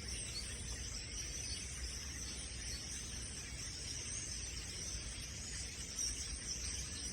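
A large flock of perched birds chattering together, a dense steady chorus of high-pitched chirps, over a low steady rumble.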